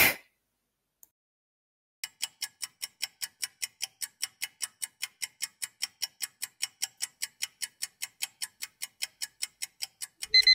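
Clock-ticking countdown-timer sound effect, a steady even ticking at about five ticks a second starting about two seconds in. Just before the end an alarm-clock beep sounds as the timer reaches zero.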